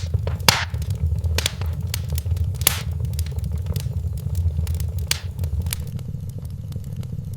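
Wood fire in a fireplace crackling, with irregular snaps and a few sharper pops over a steady low rumble.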